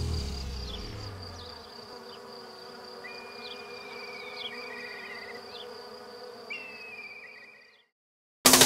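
Insect-like ambience: a steady high buzz with scattered short chirps and two rapid trills. The music's last low notes die away under it at the start. It fades into a moment of silence, and loud music cuts in abruptly near the end.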